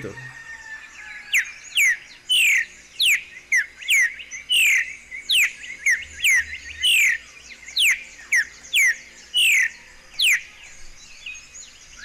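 Streaked saltator calling: a long series of sharp notes, each sliding steeply down in pitch, about two a second, beginning about a second in and stopping near the end.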